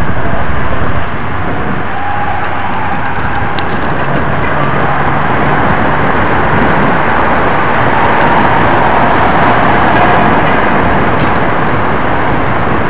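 Steady street noise of traffic and a large pack of bicycles riding together, a continuous rush with no clear single event.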